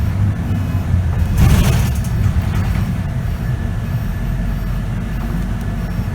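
Scania K94UB bus's diesel engine and ZF automatic driveline running, heard from inside the cabin as a steady low rumble. A short burst of hiss comes about a second and a half in.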